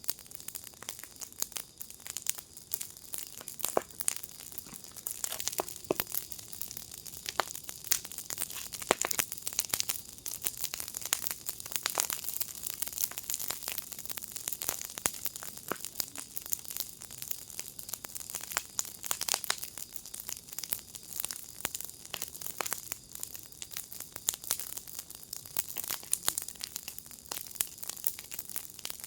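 Fire pit fire crackling, with dense, irregular sharp pops and snaps over a steady hiss.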